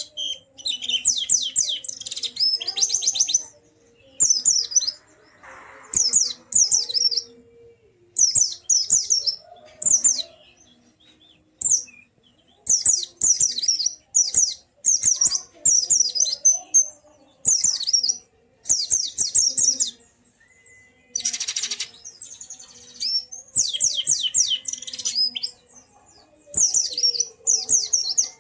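Pleci (white-eye) singing: rapid high-pitched chirping phrases, each about a second long, repeated with short pauses, with one harsher, rasping call about three quarters of the way through.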